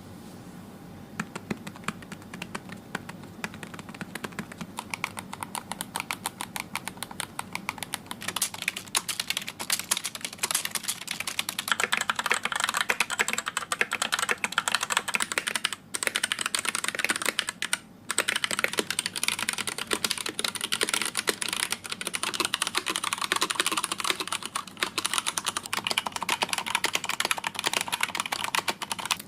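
Computer keyboard typing: a fast, continuous patter of key clicks, getting louder and denser about a quarter of the way in, with two brief pauses around the middle.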